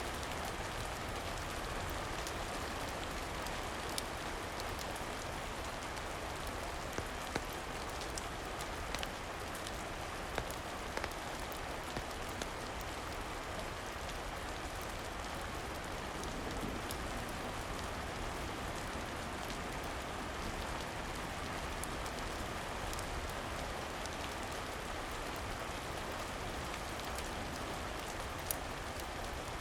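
Steady rain falling, with a few sharp clicks or pops scattered through it.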